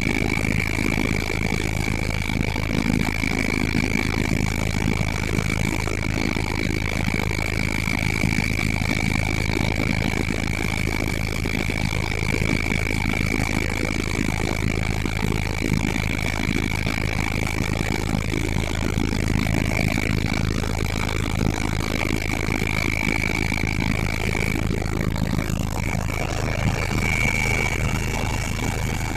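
Helicopter in flight, heard from inside the cabin: a steady low drone from the rotor and engine, with a steady high turbine whine over it.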